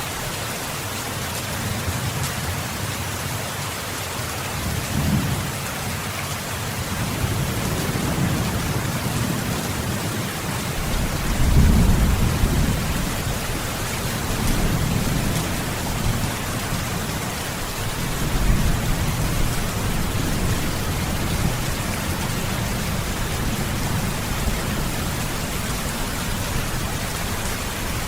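Steady heavy rain hissing, with low rolling thunder rumbles swelling and fading several times; the loudest rumble comes about twelve seconds in.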